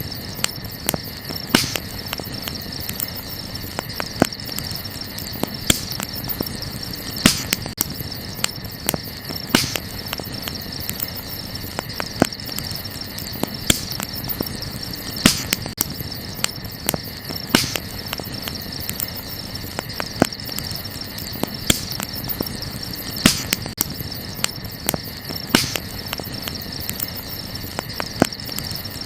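Wood campfire crackling, with sharp pops every second or two, over a steady high chirring of crickets.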